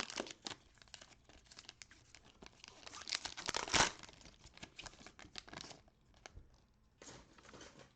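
A trading-card pack wrapper being torn open and crinkled by hand. The crackling is loudest a few seconds in, thins out, and gives one more short crinkle near the end.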